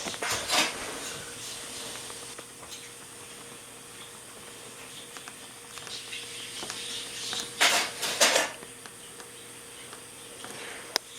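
A lovebird scuffling with a rubber balloon: short scratchy rubbing and rustling bursts, one at the start and two close together about eight seconds in, with faint taps between.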